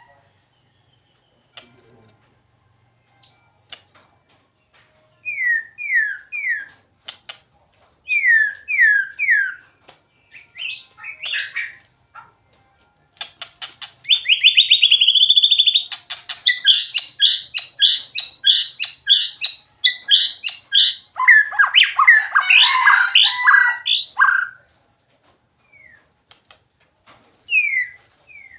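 A songbird, the one the title calls nok binla dong, singing in separate phrases: short sets of three falling whistled notes, a fast trill about halfway through, then a long run of rapid repeated notes and a dense, tumbling phrase, with a few single notes near the end.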